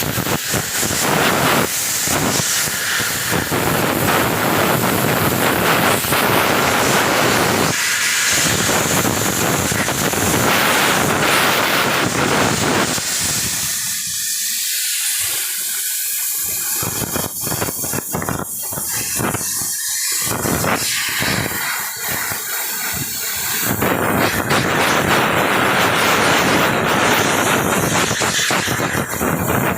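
Pressurised jet hissing loudly while a truck's urea (DEF) filter is cleaned, stopping and starting several times in short bursts around the middle before running steadily again.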